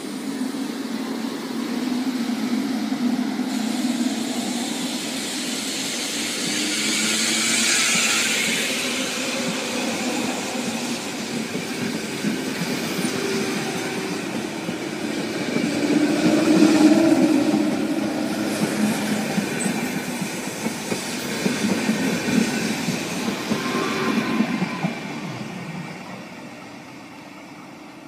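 Renfe electric passenger train moving off along the platform and pulling away: a steady low running hum with the rattle of wheels on the rails. It is loudest about two-thirds of the way in, then fades as the train recedes near the end.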